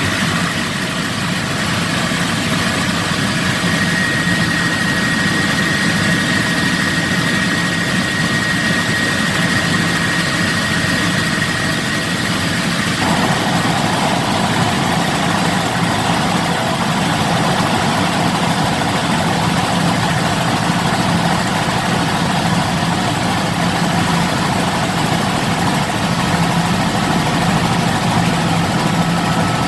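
Helicopter engine and rotor running steadily, a loud constant drone with a slight change in tone about halfway through.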